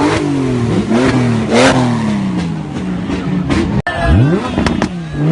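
High-performance car engine revving and accelerating, its pitch repeatedly rising and falling. Almost four seconds in the sound breaks off abruptly, then comes back with a quick rising rev.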